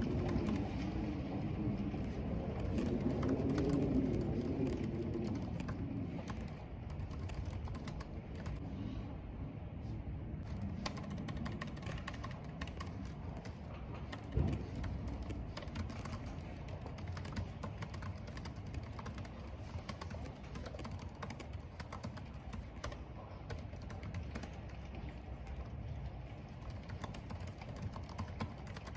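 Computer keyboard typing: a steady run of quick keystrokes, over a low background rumble that is strongest in the first few seconds. A single thump about halfway through.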